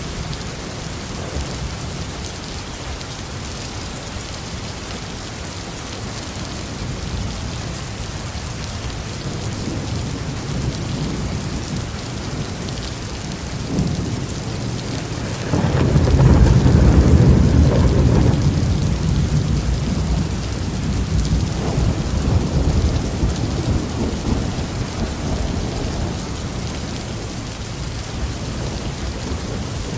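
Steady heavy rain falling on a roof, with a deep roll of thunder that swells suddenly about halfway through and rumbles away over several seconds.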